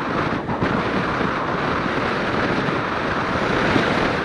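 Steady wind rush over the microphone of a Suzuki Inazuma 250 motorcycle moving at road speed in a strong crosswind, with the bike's running noise underneath.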